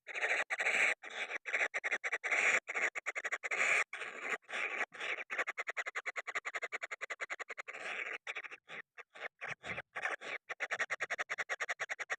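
Kingfisher chicks begging: a continuous run of short, rasping, scratchy calls repeated several times a second.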